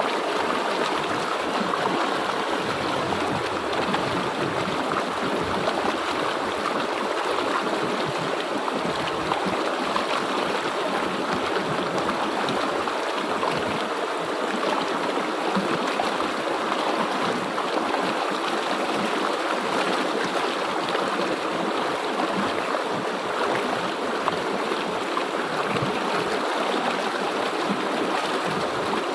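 River water flowing: a steady, even rush with no let-up.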